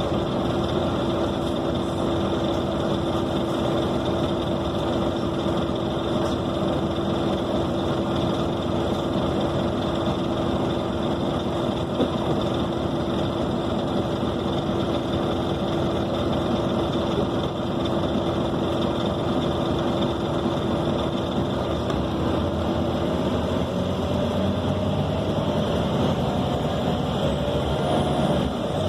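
Interior drone of a Scania K270 city bus's diesel engine and running gear while under way, with a steady held tone. About 22 seconds in, the pitch starts to rise as the engine speeds up.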